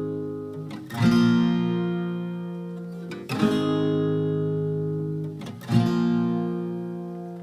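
Background music: an acoustic guitar strumming slow chords, one about every two and a half seconds, each left to ring out and fade.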